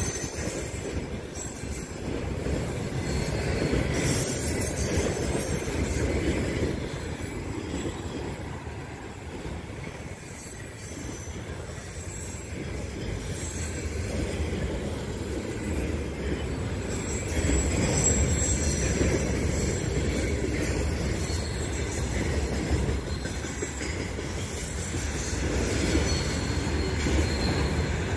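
Container flat wagons of a freight train rolling past on the rails, a steady rumble of wheels on track that swells again about two-thirds of the way through. At that point a thin, very high steady squeal joins in, wheel squeal as the train comes off a curve.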